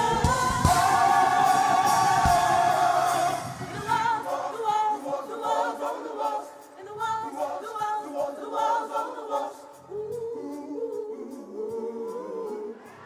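Gospel choir singing: a loud held chord with drum hits for about the first three seconds, then softer, wavering voices.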